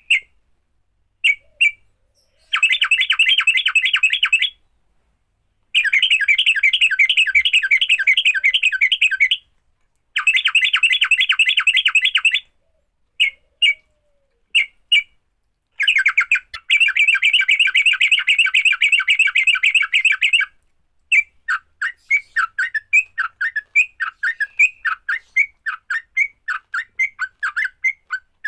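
Yellow-vented bulbul (trucukan) giving its fighting call: bursts of fast, rattling chatter a few seconds long, broken by short pauses and a few single notes, loosening into a run of separate quick notes near the end.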